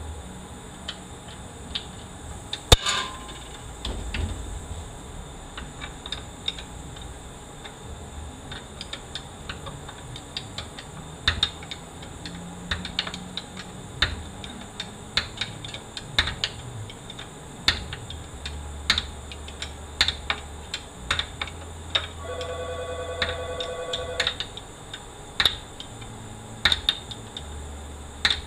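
Irregular metallic clicks and clanks of hand tools and parts being handled while a 4L80E automatic transmission is taken apart, with one sharp metal bang about three seconds in and a brief pitched whine near the end.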